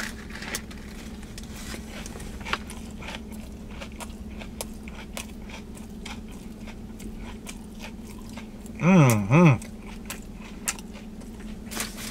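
A man bites into a sub sandwich with potato chips inside it and chews, with small crunches and wet mouth clicks. About nine seconds in he gives two short hummed 'mm-mm' sounds. A faint steady low hum runs underneath.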